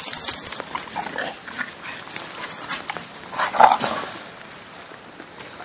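A dog moving about close by, with a cluster of scattered clicks and rustles in the first second and a short whine about three and a half seconds in.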